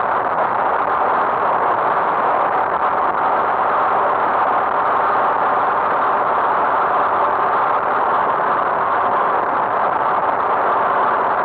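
A vehicle engine running steadily under an even rushing noise, with no change in pitch or level.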